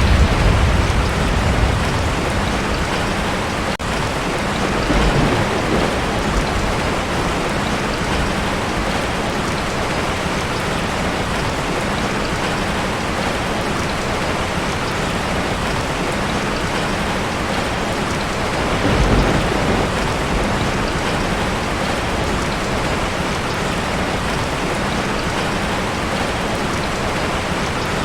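Heavy rain pattering steadily on a tin roof, with low rolls of thunder: one dying away in the first couple of seconds, a short one about five seconds in, and another about nineteen seconds in.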